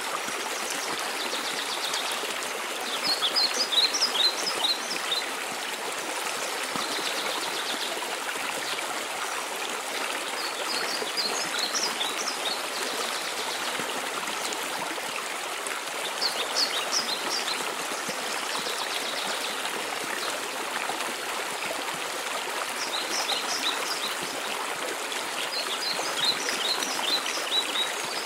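Steady rushing of a mountain waterfall, with a songbird singing short phrases of quick high notes every few seconds, about five times.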